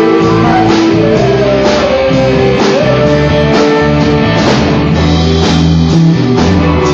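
Live rock band playing: electric guitar with a note bending up about two seconds in, bass and a drum kit keeping a steady beat of roughly one hit a second.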